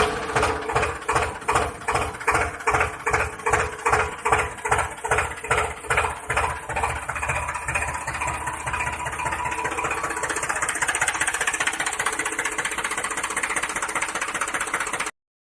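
Small motor-driven homemade model tractor bund maker running. For about the first eight seconds it pulses evenly, roughly three times a second, then it settles into a steady buzz.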